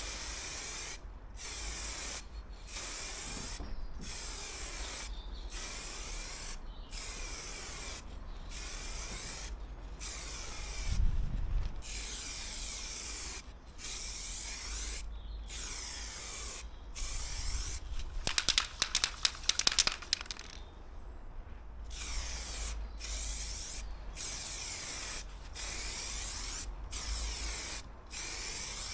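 Aerosol spray can of clear coat hissing in repeated short passes of about a second each, with brief pauses between. About two-thirds of the way through, a short run of sharp rattling clicks breaks into the spraying.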